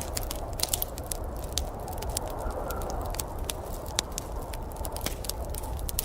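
Wood fire in a fireplace crackling, with frequent irregular sharp pops and snaps, over a steady low rumble.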